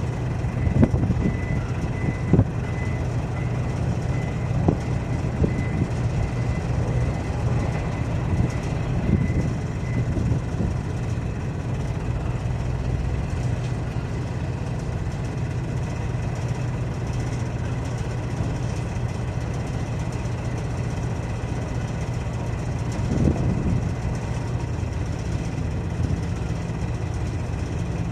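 Heavy diesel engine idling steadily, with a few sharp metallic knocks in the first five seconds. A faint, evenly repeating high beep sounds for the first ten seconds.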